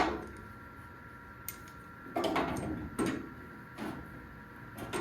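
Five or so separate clanks and clatters of hand tools and clamps being handled while a body panel is fitted, with a faint steady high hum underneath.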